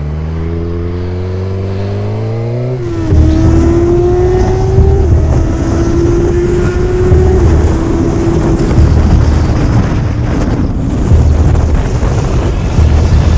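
Motorcycle engine accelerating with a steadily rising pitch, then, after a sudden change about three seconds in, another motorcycle engine running at speed with wind noise, its note holding fairly steady and sagging slightly.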